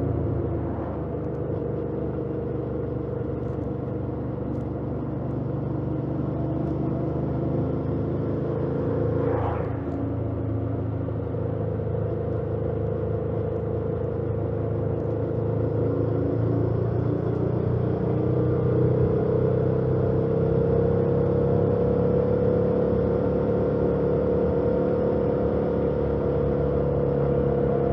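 2018 Yamaha MT-07's 689 cc parallel-twin engine with its stock exhaust running on the road, its pitch drifting slowly up and down with the throttle and rising gently in the second half. A brief rising-and-falling sound cuts through about nine seconds in.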